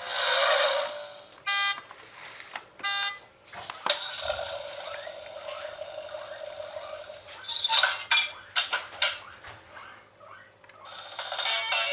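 Electronic beeps from a battery toy: two short pitched beeps, then a longer held tone, among clicks and handling noises.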